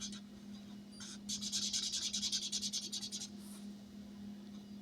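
Rapid back-and-forth scribbling on paper, about ten strokes a second for roughly two seconds, colouring in a numbered box on a savings-challenge sheet. A faint steady hum runs underneath.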